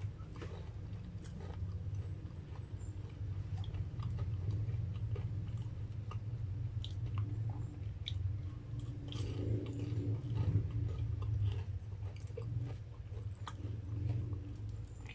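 A person chewing mouthfuls of breaded, deep-fried cheese corn dog close to the microphone, with scattered small mouth clicks over a low steady hum.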